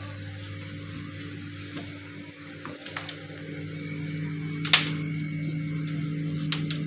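Samsung refrigerator running with a steady low mechanical hum, now that its faulty fan motor has been replaced and it is cooling again, with a few sharp clicks on top.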